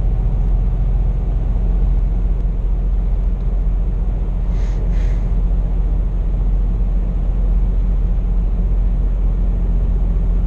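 Scania P420 truck and trailer cruising at about 80 km/h, heard from inside the cab: a steady, unchanging low engine drone with road noise.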